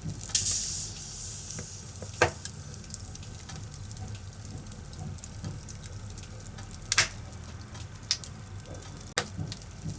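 Wood fire burning in a fireplace: a steady low rumble and hiss of the flames, with sharp crackling pops from the burning logs about two, seven and nine seconds in, the loudest near seven seconds, and a brief hissing swell just after the start.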